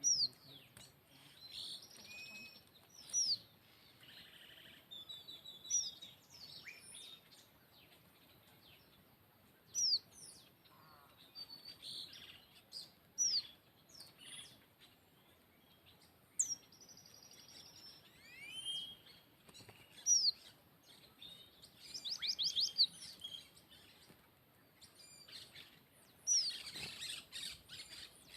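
Small birds calling: many short, sharp chirps that slide downward, mixed with a few buzzy trilled notes, coming every second or two with a busier flurry near the end.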